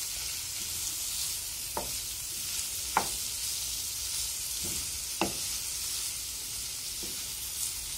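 Sliced onion, green pepper and minced garlic sizzling in hot oil in a frying pan, with a steady hiss, while a wooden spoon stirs them and knocks against the pan a few times.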